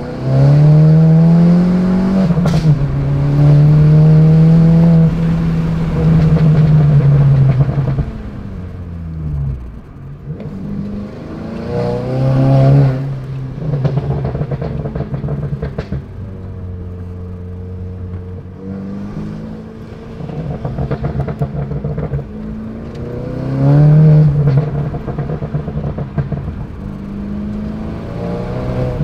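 Stage 1 tuned 2015 VW Golf GTI Performance's turbocharged 2.0-litre inline-four and aftermarket valved turboback exhaust, heard from inside the cabin under hard acceleration. The revs rise and hold loud for several seconds, then fall away. It pulls hard again briefly twice more, with quieter steady cruising in between.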